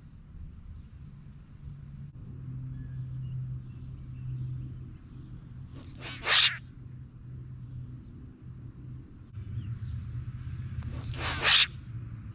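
Bird giving a harsh, toneless call twice, each about half a second long and about five seconds apart, over a steady low rumble.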